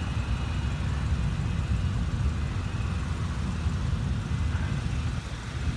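Steady low rumble of a jet aircraft taking off and departing.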